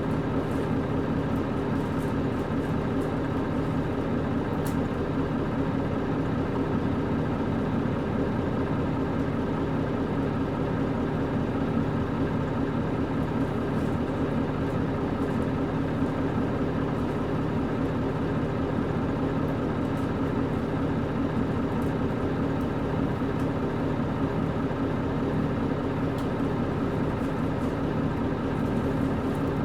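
KC-UA460LSN one-step bus's PG6 diesel engine running steadily at an even pitch, heard from inside the passenger cabin.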